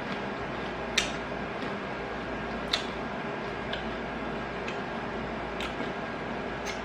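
Irregular sharp clicks and smacks of chewing and eating crispy fried chicken, two louder ones about a second and nearly three seconds in, over a steady room hum.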